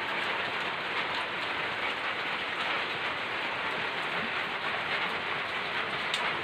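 Steady rain falling, an even hiss of drops with no break, and one short tick near the end.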